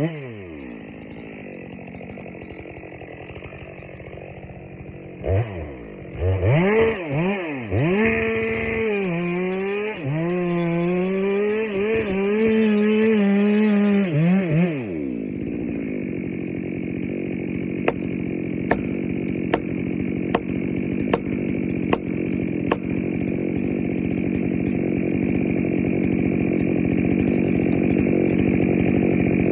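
Chainsaw running at low speed, blipped a few times, then held at high revs for about seven seconds with its pitch wavering under load as it cuts into a pine trunk, before dropping back. After that a steady rushing noise with the saw's hum under it, and a run of about ten sharp knocks, roughly two a second.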